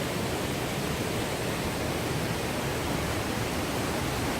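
Steady, even rush of a waterfall (Paraeso Falls) pouring into its pool, heard close up.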